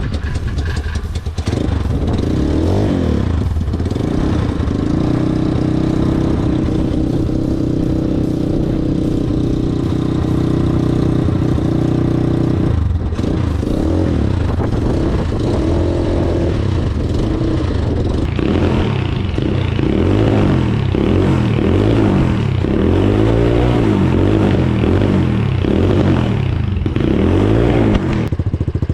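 Apollo 250cc dirt bike engine running through a newly fitted aftermarket exhaust: it starts and idles steadily, then from about halfway is revved up and down over and over. The head pipe to rear pipe joint has no clamp, which the owner expects to leak.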